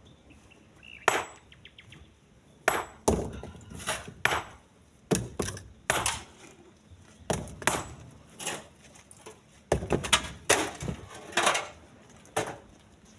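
Split stones being thrown by hand into a truck's bed, knocking against the bed and the pile already in it. The sharp, irregular clunks come about once a second, some of them ringing briefly.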